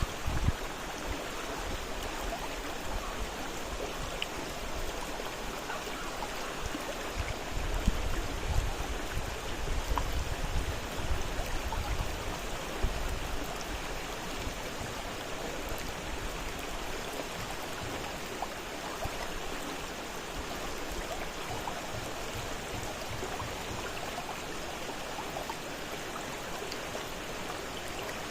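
Fast-flowing river water rushing steadily, with a few low rumbles a third of the way in.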